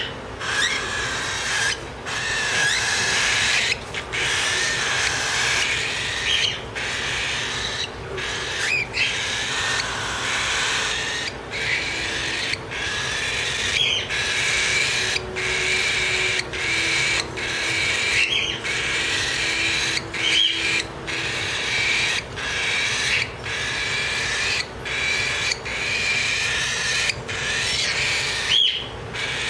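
Four-week-old baby cockatiels begging for food: raspy calls repeated almost without pause, each about a second long with short breaks between.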